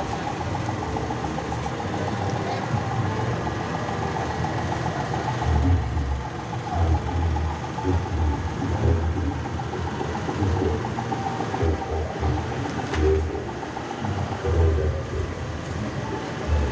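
Large sound system playing loud, bass-heavy music, with irregular deep bass thumps.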